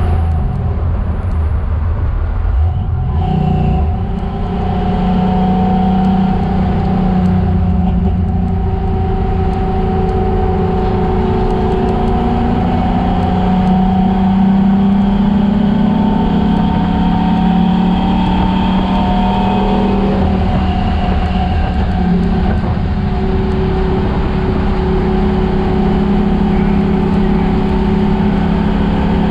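Chevelle's engine running hard on a race track, the revs climbing and falling as the driver accelerates, lifts and shifts, with a short drop in revs about three seconds in.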